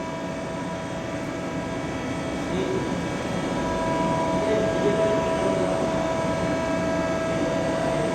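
CNC turning machine running: an even mechanical noise carrying a steady whine of several fixed tones, growing a little louder about three seconds in.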